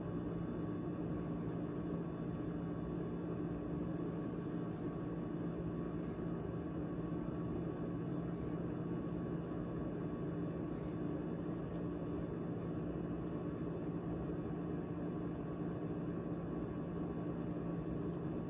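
GE GTH18XCTZRBB refrigerator running steadily after its defrost heat cycle, a constant machine hum with a few held tones.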